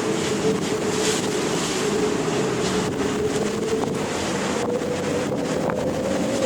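Ocean surf and wind noise, with a steady hum underneath that edges slightly higher in pitch near the end.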